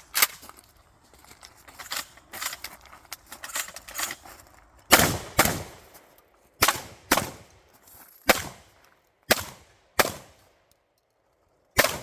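Beretta 1301 semi-automatic 12-gauge shotgun firing a string of loud shots, several in quick pairs about half a second apart, with fainter cracks and clatter in between.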